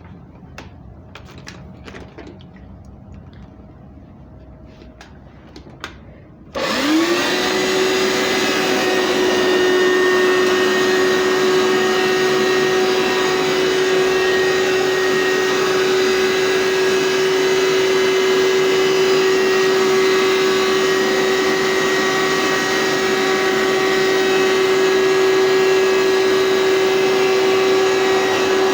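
A few light clicks and knocks, then about six seconds in a Hoover SteamVac carpet cleaner's motor switches on, spins up quickly and runs on with a steady, loud whine.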